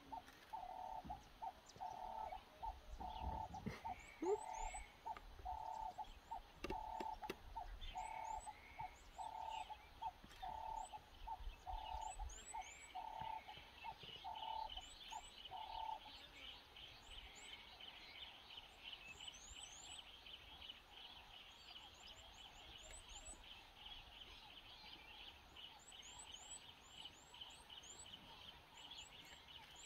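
Wild birds calling in the bush: a low note repeated steadily for about the first half, thin high chirps throughout, and a fast, higher pulsing trill that takes over about halfway through.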